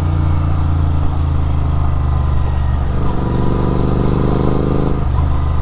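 Sport motorcycle engine with an SC Project aftermarket exhaust, running steadily under way; its note shifts about three seconds in and again near the end.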